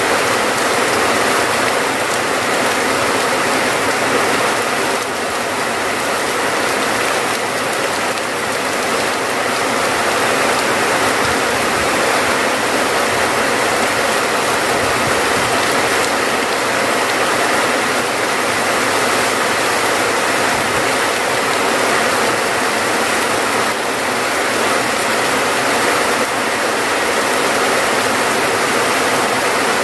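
Steady heavy rain: a dense, even hiss of falling water with a fine crackling patter, unbroken throughout.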